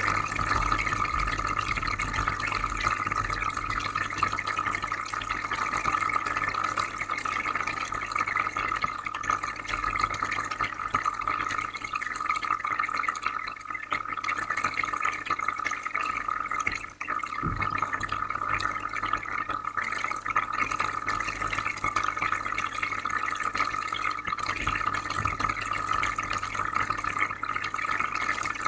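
Aquarium filter running: water trickling and bubbling over a steady low hum, briefly quieter about seventeen seconds in.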